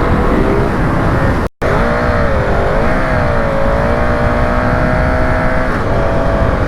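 Motorcycle engine running on the move, its pitch wavering up and down and then holding steady, over a low rumble. The sound cuts out for an instant about one and a half seconds in.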